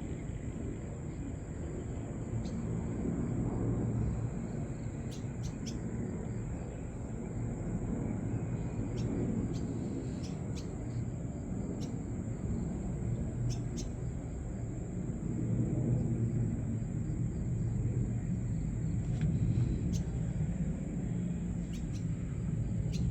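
Outdoor early-morning ambience: a steady low rumble with a thin steady high hiss, and scattered short high chirps of small birds, several coming in quick pairs.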